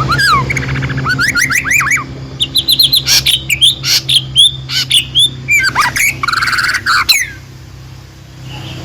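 A songbird singing a fast, varied run of chirps, sweeping whistled notes and short trills, stopping about seven seconds in. A steady low hum runs underneath.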